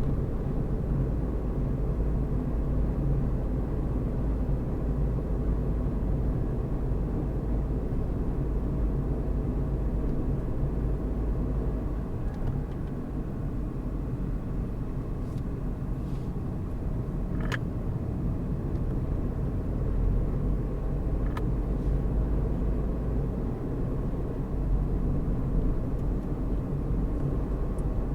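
Car driving along a road: a steady low engine and tyre rumble, with two faint clicks a few seconds apart past the middle.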